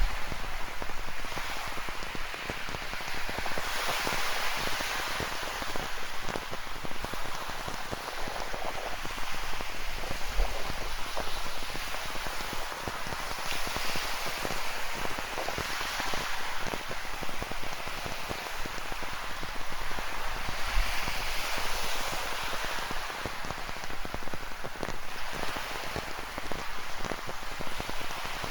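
Steady hiss of rain falling, mixed with ocean surf breaking on a rocky shore. The noise swells and eases every several seconds as waves wash in.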